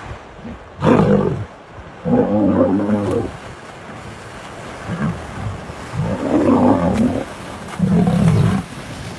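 Lions snarling and growling in a fight: four loud, rough calls, the first about a second in and the last near the end, over a steady rush of water or wind noise.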